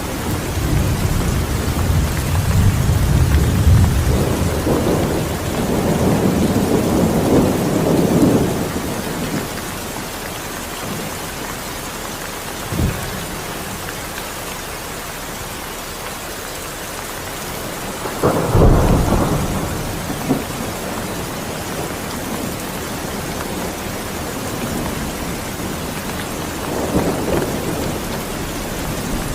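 Steady heavy rain with thunder: long low rumbles over the first third, a short sharp crack about halfway in, and another louder rumble soon after, fading again toward the end.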